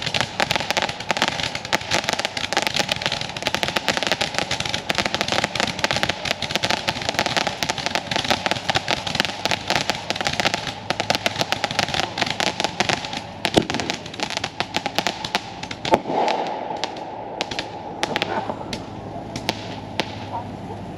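Firecrackers going off in a fast, dense run of sharp pops, with a couple of louder bangs about 13 and 16 seconds in, thinning to scattered pops near the end.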